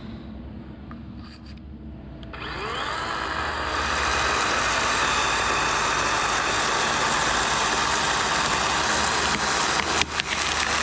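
Dewalt 40V battery chainsaw spinning up with a smooth rising whine a couple of seconds in, then cutting steadily through wood, with a brief drop near the end. Under it, a diesel engine idles steadily.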